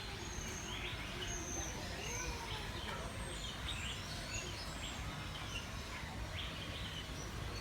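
Many aviary birds chirping and calling in short, overlapping notes over a steady low background rumble.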